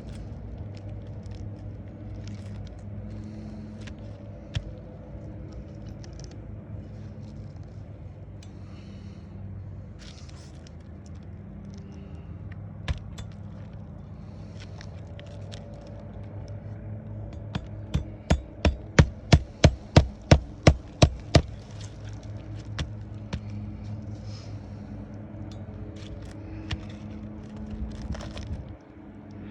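A hammer driving roofing nails: about a dozen quick, even blows, some three a second, a little past the middle, as an asphalt shingle is nailed back in place. A steady low hum and a few scattered clicks and scrapes run underneath.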